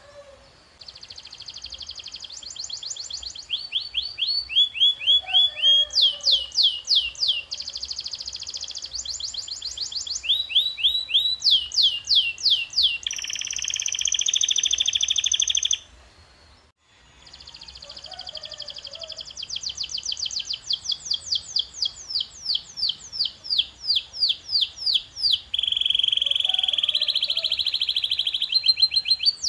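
Domestic canary singing: a string of fast trilled phrases, each a quick run of high falling notes repeated at an even rate, changing to a new phrase every second or two. The song breaks off for about a second just past halfway, then resumes.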